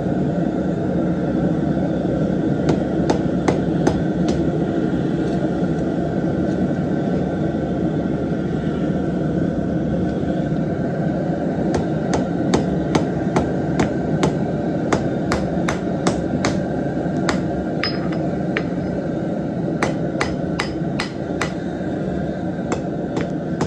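Forging hammer striking a knife blank on an anvil in runs of rapid blows, two or three a second, with short pauses between the runs. A steady low roar runs underneath.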